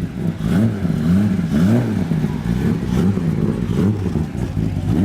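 Classic car engines revving as the cars pull away, the engine note rising and dropping again and again in quick succession through the gears and throttle blips.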